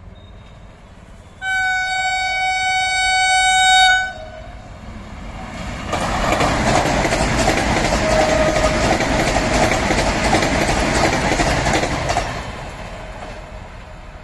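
Vande Bharat Express sounding one long horn blast of about two and a half seconds, its pitch dropping slightly as it ends. The train then rushes past at about 130 km/h, loud for some six seconds before fading away.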